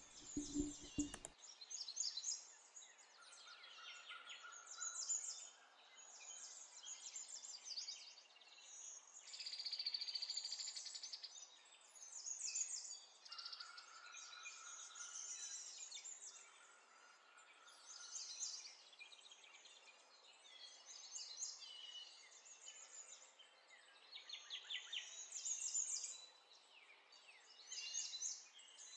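Faint birdsong: many short chirps and trills, with a rapid trill about ten seconds in.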